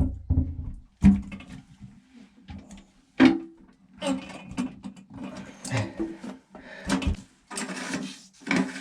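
A series of knocks, clunks and clatters, one every second or so, as the parts of a Vacuflush marine toilet are handled and fitted back onto its base. A faint steady hum runs underneath.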